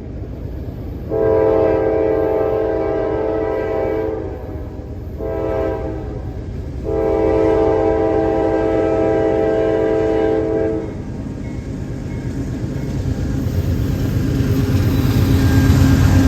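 Diesel freight locomotive's air horn sounding a chord of several tones: a long blast, a short one, then another long blast, typical of a grade-crossing signal. The locomotive's low rumble then grows louder as it approaches.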